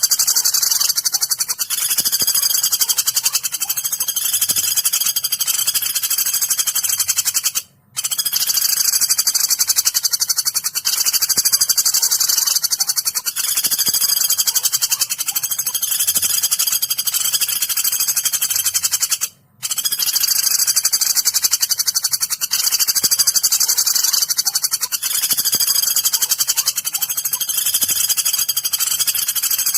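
Looped masteran recording of woodpecker calls played for training songbirds: a dense, high-pitched run of rapid chattering notes that breaks off briefly twice, about every eleven and a half seconds.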